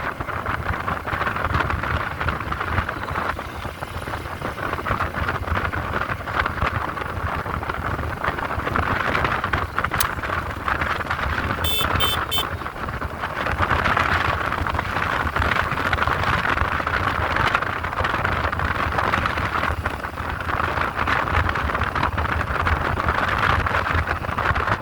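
Motorcycle on the move: steady wind and road noise over the engine, with three short high beeps about halfway through.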